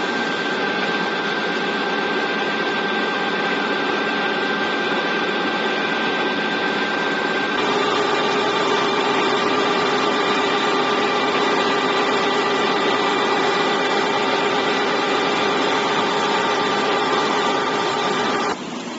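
Ice block machine running: a steady mechanical drone with several constant whining tones. About seven and a half seconds in, the high whine gives way to a lower one, and the sound drops off just before the end.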